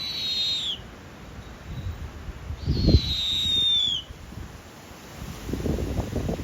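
A bird calling: a long, high whistle that falls in pitch, repeated about every three seconds. Low thumps and rustling come about three seconds in and again near the end.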